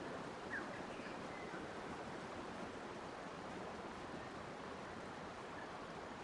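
Steady rushing noise of flowing water, with a few faint bird chirps in the first second or two.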